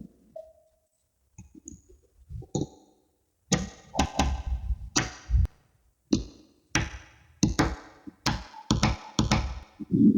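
Small magnetic balls clicking and snapping together, a few sparse clicks at first, then quick irregular runs of sharp clicks and taps from about three and a half seconds in.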